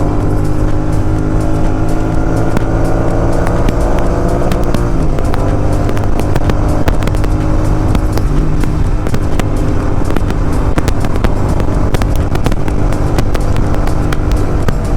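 Royal Enfield Continental GT 650's parallel-twin engine through an aftermarket exhaust, revs rising steadily for about five seconds under throttle. Then the revs drop, and the exhaust crackles and pops with rapid sharp snaps as the bike runs on a closed throttle.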